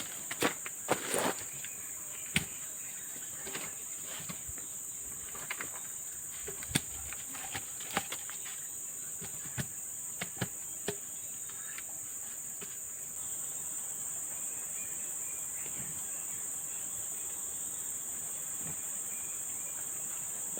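Steady high-pitched insect chorus of the rainforest, with scattered light knocks and clicks over it, several in the first second and a half and then only now and then.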